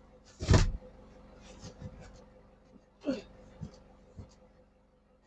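Cardboard cartons being handled and stacked while loading a shipping container: one heavy thud about half a second in, then a few lighter knocks. A short vocal sound comes about three seconds in.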